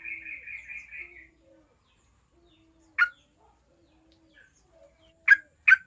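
Yellow-vented bulbul calling: a quick chattering run of about seven notes at the start, then three loud sharp single call notes, the last two close together near the end.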